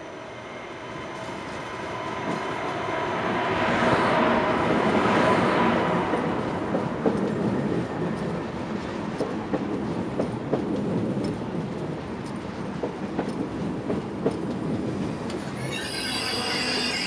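Deutsche Bahn ICE high-speed train pulling slowly into a platform: its running noise swells as the power car passes about four seconds in, then the coaches roll by with irregular clicks of wheels over rail joints. Near the end a squeal of several high tones sets in as the train slows.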